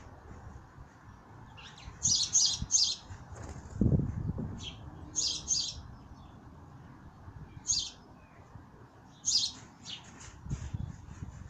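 Small garden birds chirping in short, high calls that come in clusters of two or three, with a louder low thump about four seconds in.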